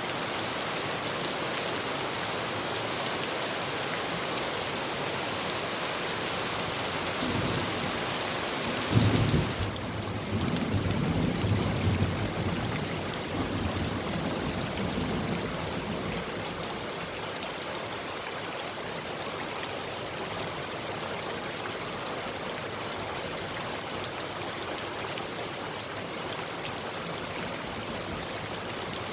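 Heavy rain drumming steadily on a tin roof. A low rumble of thunder builds about seven seconds in, breaks into a loud clap near nine seconds, and rolls on for several seconds before fading back under the rain.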